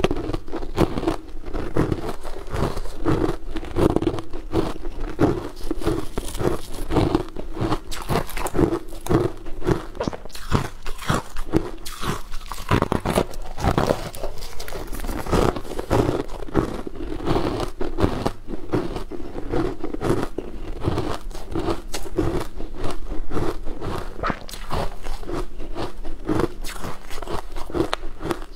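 Close-miked mouth sounds of a person biting and chewing crumb-coated fried balls: steady crunching at about two chews a second, with repeated bites.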